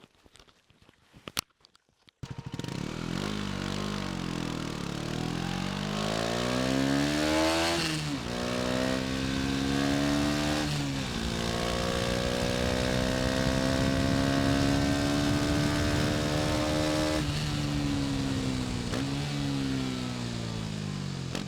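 KTM 250 Duke's single-cylinder engine comes in suddenly about two seconds in after a few faint clicks, then revs climb and drop sharply at upshifts around eight and eleven seconds in. It holds a fairly steady speed, then eases off near the end.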